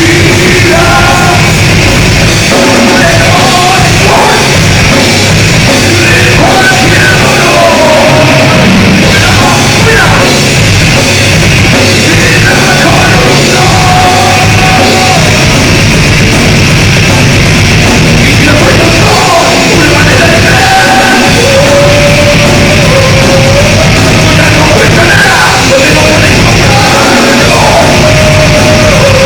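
Heavy metal music played loud, with a dense band sound and a singer's voice wavering over it.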